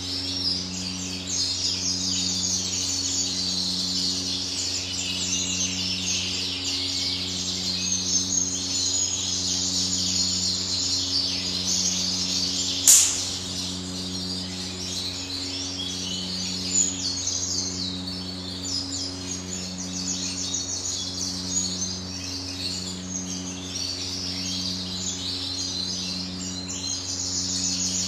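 Many small caged birds chirping and twittering together without pause, over a low steady hum that pulses about once a second. A single sharp click sounds about halfway through.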